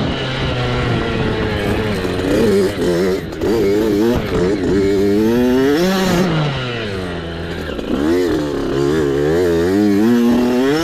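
Small youth dirt bike engine revving up and down with the throttle while riding off-road, the pitch rising and falling constantly, with a longer surge about six seconds in and a brief easing off after it.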